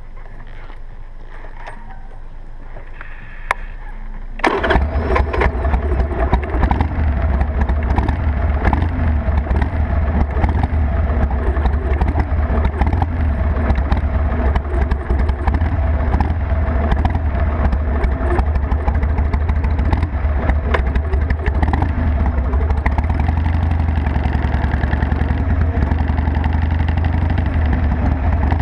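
Harley-Davidson Sportster XL883's air-cooled V-twin engine starting abruptly about four seconds in, just after a single click, then running steadily at idle.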